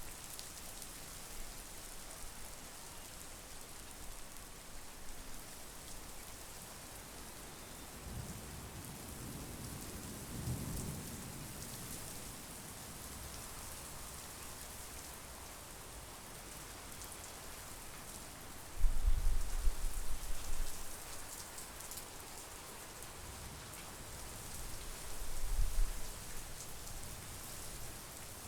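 Steady monsoon rain hissing over a lake and trees, with low thunder rumbles: a soft one about eight seconds in, a sudden loud one a little past the middle lasting a couple of seconds, and another swelling near the end.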